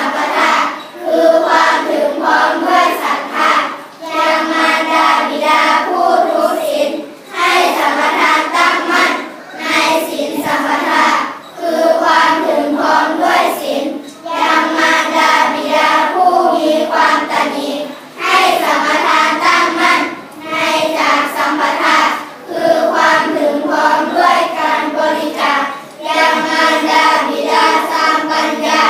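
A class of primary-school children chanting a Buddhist sutta in unison, in phrases broken by short pauses every two to four seconds.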